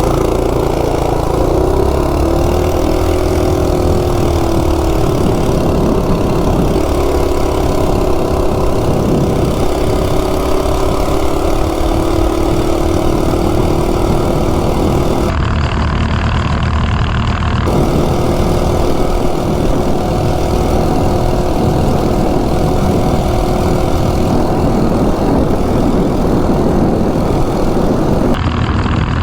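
Coleman RSV minibike's ungoverned 196cc single-cylinder engine running hard at high revs on a top-speed run, pitch climbing early on, with wind rumbling on the microphone. The sound changes abruptly partway through and again near the end, where takes are cut together.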